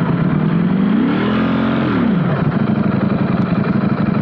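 Ducati Streetfighter V4S's V4 engine on its stock exhaust, revved once with the pitch climbing and falling back over about two seconds, then settling into a steady idle.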